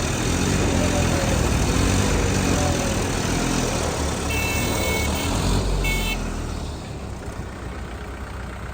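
Diesel tractor engines revving hard under load, their pitch rising and falling repeatedly, as tractors strain to pull a tractor out of mud. The engine noise eases off about six and a half seconds in.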